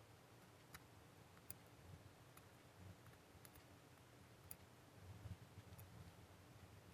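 Near silence with a few faint, scattered sharp clicks, about one a second, over a faint low hum.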